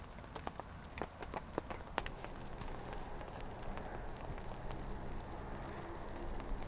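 Rain mixed with sleet striking a surface: irregular sharp drop ticks for the first couple of seconds, then a steadier even rain noise.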